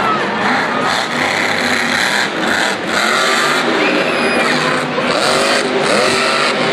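Monster truck engine running loud and revving, its pitch rising and falling repeatedly.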